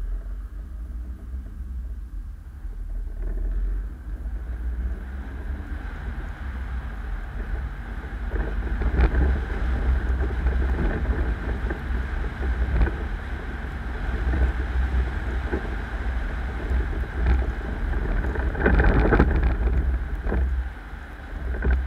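Car on the move heard through an action camera's microphone: a steady low road and engine rumble that gets louder about eight seconds in. It is broken by a few sharp knocks and a louder rushing stretch near the end.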